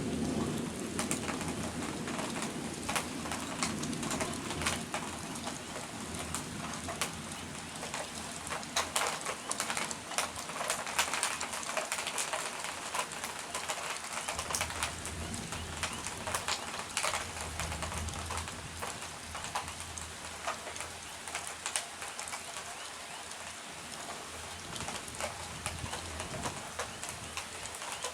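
Rain falling and dripping in many sharp drops, with a bird cooing now and then.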